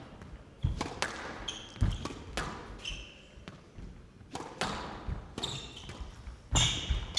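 Squash rally: the ball struck hard by rackets and cracking off the court walls about once a second, with short high squeaks of players' shoes on the court floor.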